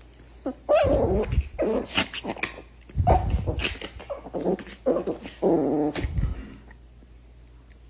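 A dog vocalising in a series of short pitched calls that rise and fall, like a dog 'talking'.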